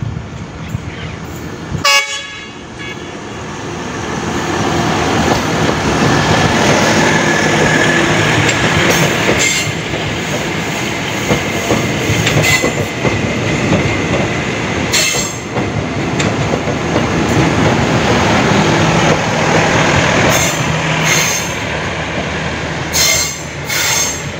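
Airport train sounds one short horn blast about two seconds in, then rumbles past close by as it turns onto the platform track and slows, its wheels clacking sharply over the rail joints and points several times.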